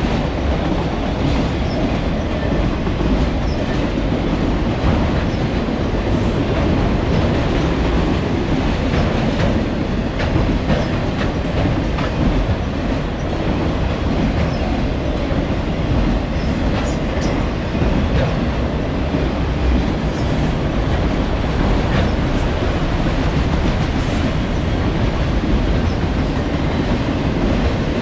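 Freight train of auto rack cars rolling past: a steady rumble of steel wheels on rail, with occasional clicks as the wheels cross rail joints.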